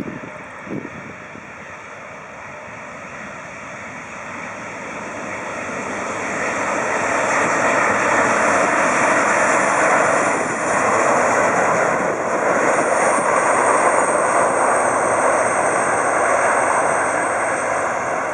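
Airbus A340-300 airliner with four CFM56 jet engines flying past on its landing approach: a steady rushing jet noise that builds over several seconds to a loud plateau, with a thin high whine joining about two-thirds of the way through.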